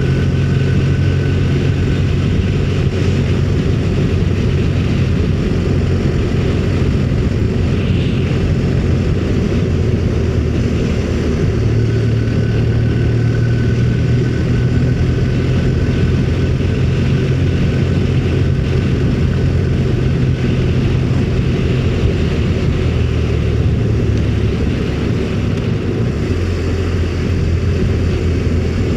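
Motorcycle engine running steadily at cruising speed, with wind and road rush over the rider's microphone; the engine note shifts slightly a few times as the throttle changes.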